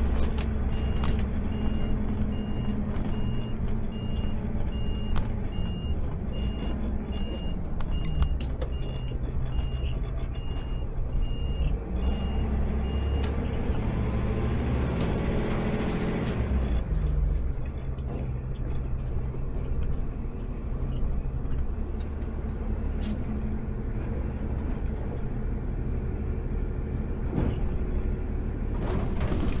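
Automated sideload garbage truck's diesel engine running, heard from the cab. For the first dozen seconds a warning beeper sounds a steady series of short high beeps. About halfway through the engine revs up and drops back, with scattered small rattles and clicks.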